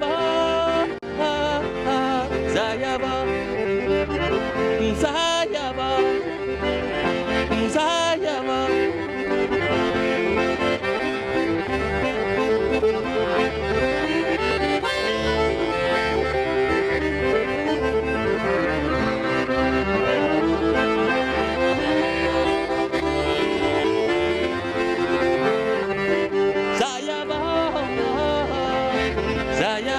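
A live band playing traditional-style world music, with held melody notes over a steady low drum beat.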